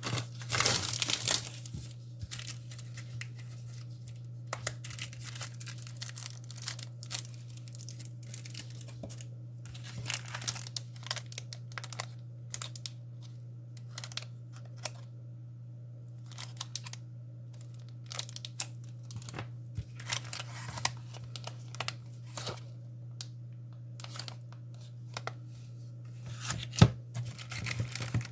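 Plastic packaging crinkling and tearing in irregular rustles and crackles, as a paint-by-numbers kit is unwrapped, over a steady low hum.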